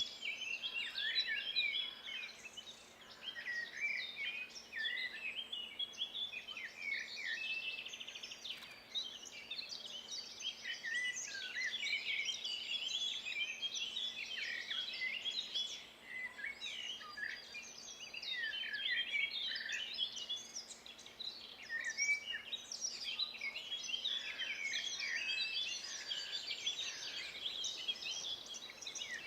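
Dawn-chorus-like mix of several songbirds singing at once: overlapping chirps, whistles and trills, dense and continuous.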